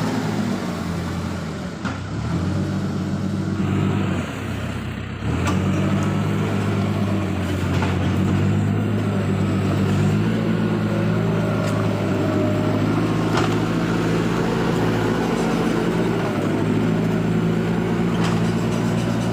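Diesel engine of a Case tractor running steadily while working, with a short change in the engine note about four seconds in before it settles back.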